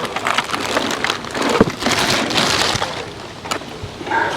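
Plastic packaging rustling and crinkling as parts are handled and unwrapped, with irregular crackles and small knocks, easing off over the last second or so.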